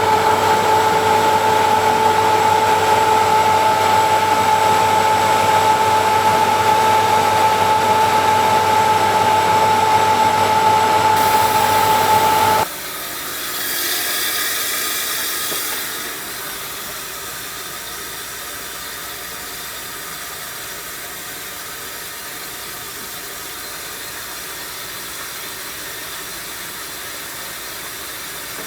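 1974 Zoppas Superautomatic 242 washing machine's motor running with a steady humming whine that cuts off suddenly about 12 seconds in. A hiss follows for a few seconds, then a quieter steady rushing noise.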